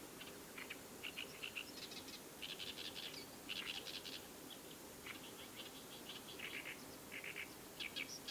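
Small birds chirping in quick runs of short, high notes, one cluster after another.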